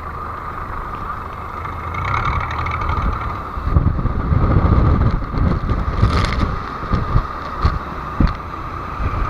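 A wooden fishing boat's engine running steadily. About four seconds in, louder irregular low buffeting and thumps join it, like wind and waves against the boat.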